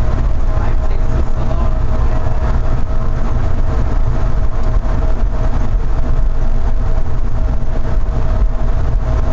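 Denver airport's automated underground train running between stations, heard from inside the car: a steady low rumble with a constant whine over it. The ride is rough, which the rider notes.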